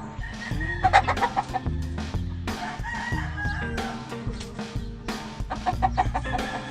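Gamefowl roosters crowing and clucking, over background music with a steady drum beat.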